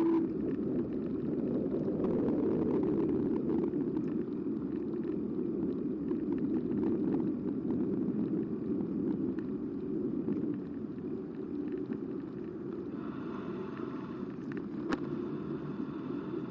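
Steady rush of wind and rolling rumble on a bike-mounted camera's microphone as an eBike rides along, easing slightly about two-thirds of the way through, with a single click near the end.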